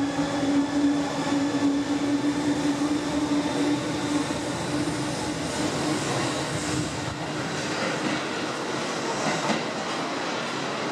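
Seibu 10000 series Red Arrow electric limited-express train pulling out and rolling past, with steady wheel and track noise. A steady hum fades out about halfway through as the rear car goes by and the train draws away.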